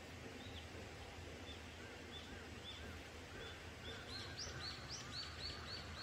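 A small bird calling in a series of short chirps, spaced out at first and coming faster and higher-pitched in the last two seconds, over faint steady background noise.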